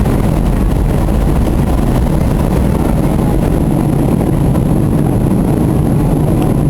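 Steady low rumble of a passenger airliner's engines and rushing air, heard inside the cabin during descent.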